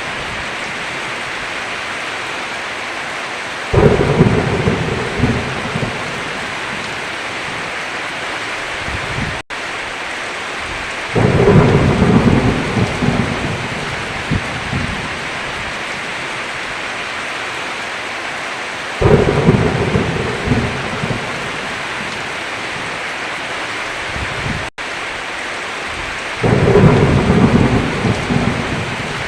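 Steady heavy rain with four rolls of thunder, one about every seven to eight seconds. Each starts suddenly and rumbles away over two or three seconds. Twice the sound cuts out for an instant.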